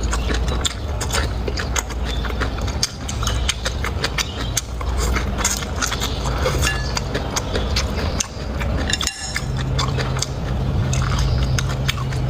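Close-up chewing and crunching of food with many small wet clicks and crackles and occasional clinks of utensils, over a steady low hum.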